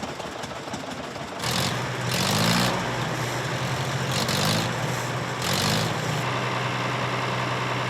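Antique farm tractor engines running steadily, with three louder surges in which the engine pitch rises, as if throttled up.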